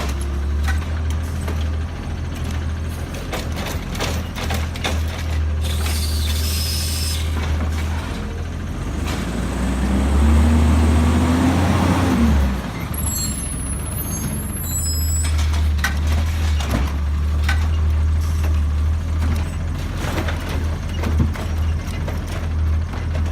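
Garbage truck's diesel engine running steadily, revving up for a few seconds partway through and then dropping back, followed by a few short high squeals.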